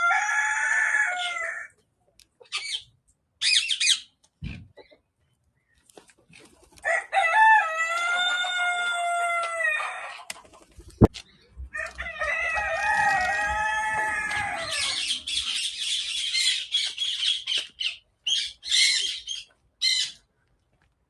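Roosters crowing: three long crows, one at the start, one about seven seconds in and one about twelve seconds in, with short clucks and calls between. A single sharp click comes about eleven seconds in.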